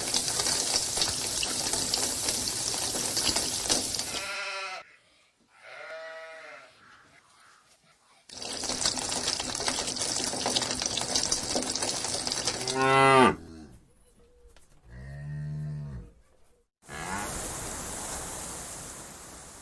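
Cattle mooing: about four separate calls, the loudest falling in pitch about 13 seconds in and the last one low. Long stretches of steady hissing noise come between them.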